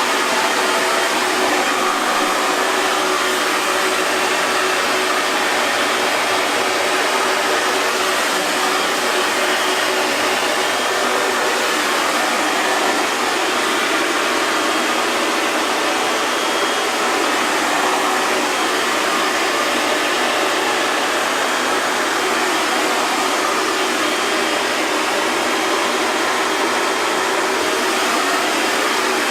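Hair dryer running steadily: a constant rush of blown air over the whine of its motor, with a faint steady hum and no change in speed.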